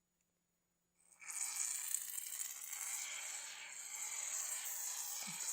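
Aerosol can of chain spray hissing in one long, continuous spray onto a motorcycle chain, starting about a second in.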